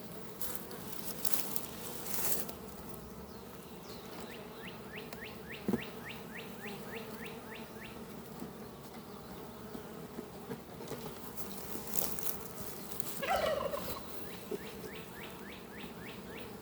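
Honeybees buzzing around an opened hive during a split. Twice a rapid string of short falling calls, about eight a second, rings out, the first about four seconds in and the second near the end.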